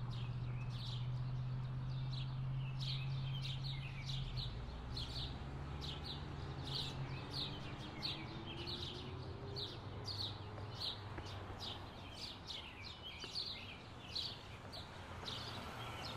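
Birds chirping, short high calls repeating a few times a second, over a low steady hum that drops back after about four seconds.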